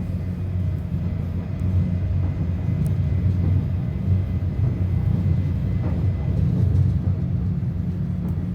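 Subway train running: a steady low rumble with a faint steady high whine above it.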